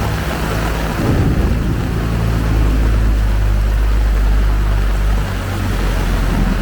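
A motor vehicle's engine running close by, a low steady hum that swells about a second in and eases off near the end, over the steady hiss of heavy rain.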